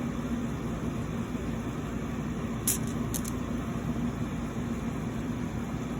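Steady background hum and hiss, with two or three light clicks close together about halfway through.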